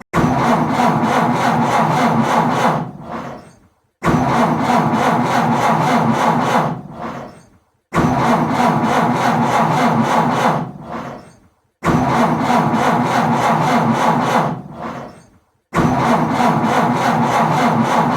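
A car's starter cranks the engine over without it catching, in five attempts about four seconds apart. Each attempt starts suddenly, cranks for about three seconds and trails off: an engine struggling and failing to start.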